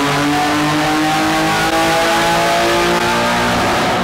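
BMW E36 M3 straight-six engine on a chassis dyno at wide-open throttle during a baseline pull, its note climbing steadily in pitch as the revs rise and easing off near the end.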